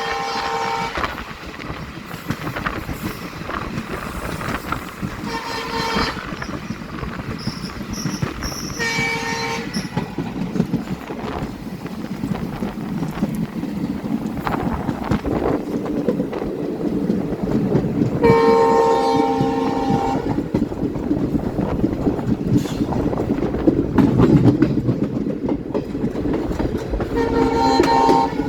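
Train horn sounding in separate blasts about five times, one of them longer than the rest, over the steady rumble and clatter of a moving train on the rails.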